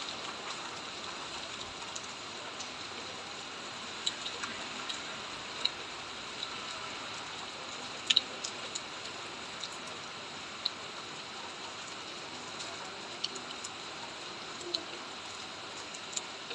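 Steady rain falling, an even hiss, with single louder drops ticking close by every second or two.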